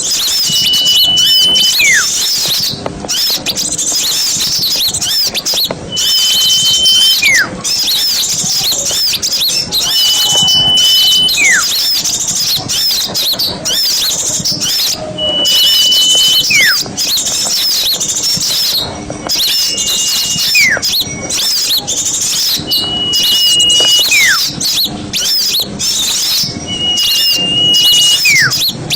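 Bird-lure recording of many small songbirds chattering densely and continuously. Over it, a clear whistle repeats seven times, about every three to four seconds: a short held note that then slides steeply downward.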